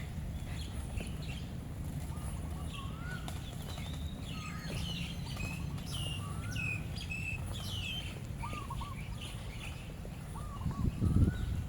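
Several birds chirping and calling over a steady low rumble of outdoor background noise, with a brief louder rustle near the end.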